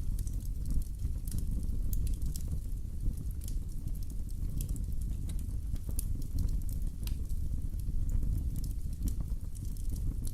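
Wood fire burning in a fireplace: a steady low rumble with frequent irregular pops and crackles.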